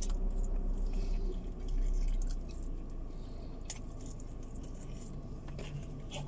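People chewing and biting into chicken pieces: wet mouth sounds with a few short clicks. A low hum under it eases off about two and a half seconds in.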